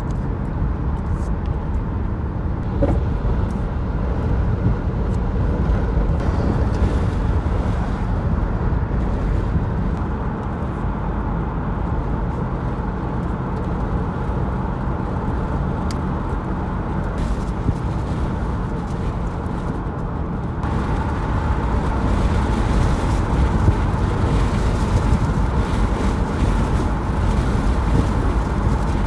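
Steady low rumble of a moving car, continuous throughout, with a slight change in its tone about two-thirds of the way through.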